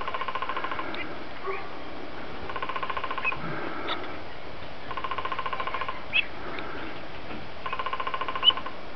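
Bird calls: a rapid pulsed trill just under a second long, repeated about every two and a half seconds, with two short sharp chirps in between.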